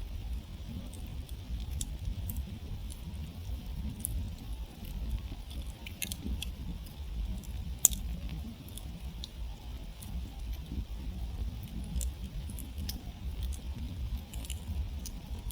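Wood campfire crackling: scattered small ticks and pops, with one sharp, louder pop about eight seconds in, over a low steady rumble.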